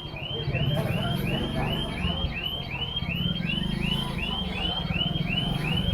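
Electronic vehicle alarm chirping rapidly, about four short chirps a second, each rising then falling in pitch, over the low running of engines in street traffic.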